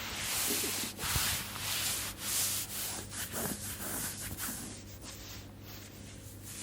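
Close-up rubbing sounds of hands stroking over skin in an ASMR massage: a series of slow, soft swishing strokes that grow quieter about four seconds in, over a faint steady low hum.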